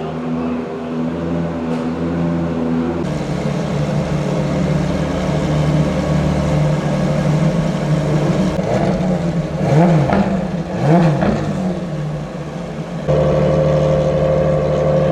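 Ferrari FXX K Evo's V12 engine running on track, its note holding steady, with two quick revs up and back down around the middle. The sound changes abruptly twice, about three seconds in and near the end.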